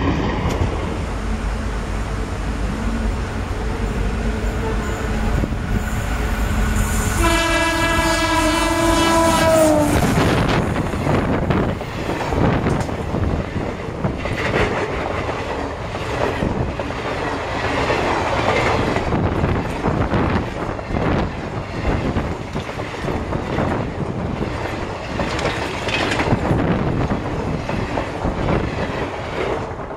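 Passenger train coaches running past at speed, wheels clattering over the rail joints. About seven seconds in, a locomotive horn sounds for about three seconds, its pitch dropping as it ends.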